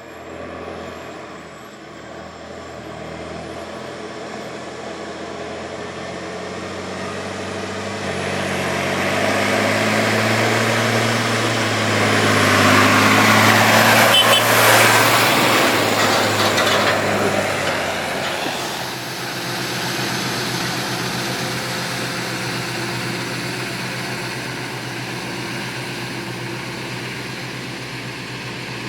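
Massey Ferguson tractor engine running under load as it passes close by, growing louder to a peak about halfway through, then dropping away and carrying on steadily at a lower level.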